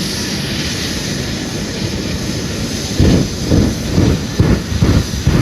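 Twin Rolls-Royce jet engines of a jet-powered fire truck running at full power with a steady loud rush. From about three seconds in, the sound breaks into loud irregular pulses, two or three a second.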